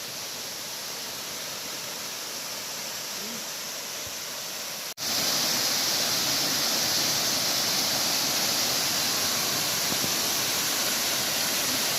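Waterfall, the steady rush of falling water; about five seconds in the sound cuts out for an instant and comes back louder and brighter.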